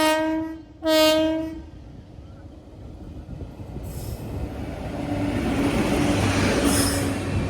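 WAP-7 electric locomotive horn: a long blast ends just after the start, followed by a second short blast about a second in. Then the train's running noise builds steadily, a rising rumble and hiss as the express accelerates.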